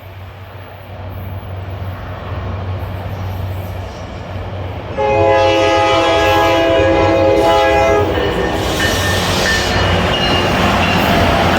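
Metro-North train approaching with a rumble that grows louder, sounding one long multi-note horn chord for about three seconds starting about five seconds in, then running past with loud wheel and rail noise.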